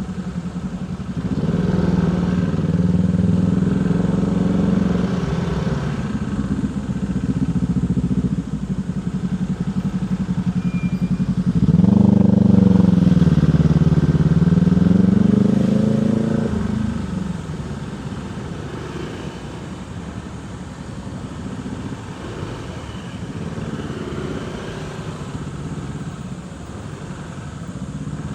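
Motorcycle engine running under way in stop-and-go traffic: steady at first, its pitch dips and climbs again as it revs about twelve seconds in, the loudest stretch, then it settles lower and quieter for the rest.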